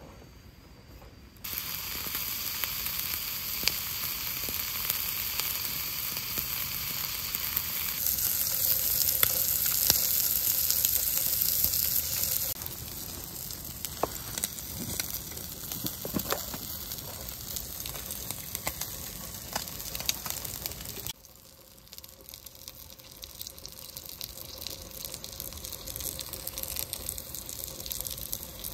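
Food frying in a cast-iron skillet: a steady sizzle with fine crackles and pops. It starts about a second in, is loudest for a few seconds in the middle, and drops sharply for a moment near the three-quarter mark.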